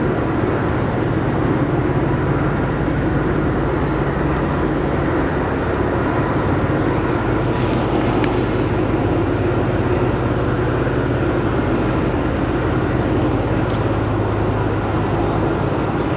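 Local passenger train running, heard from on board: a steady rumble of wheels and running gear with a low drone underneath.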